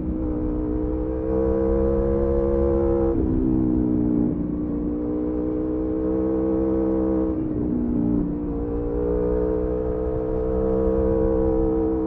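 Aprilia Tuono V4's V4 engine running under way, heard onboard. The pitch climbs slowly and drops sharply twice, about 3 and 7.5 seconds in, then climbs again.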